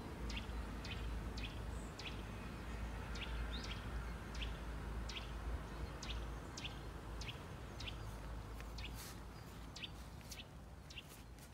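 A small bird calling repeatedly: short, high chirps falling in pitch, about two a second, over a low steady rumble.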